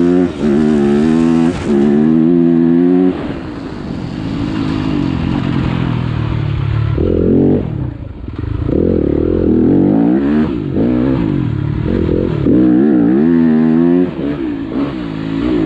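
Motocross bike engine revving hard, its pitch climbing and dropping with the throttle; it eases off about three seconds in and picks up again in the second half.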